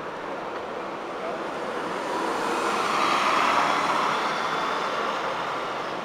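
Road traffic noise: a passing vehicle's engine and tyre noise swells to a peak about halfway through, then eases off.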